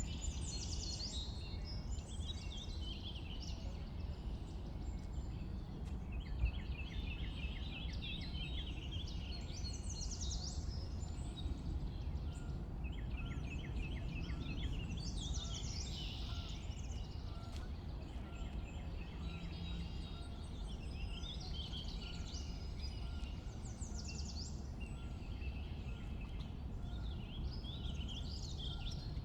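Several wild birds singing and calling over one another, including repeated rapid trills, over a steady low background rumble.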